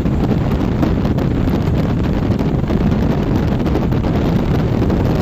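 Steady rush of wind and road noise inside a moving van, with air blowing in through a side window that hail has smashed out.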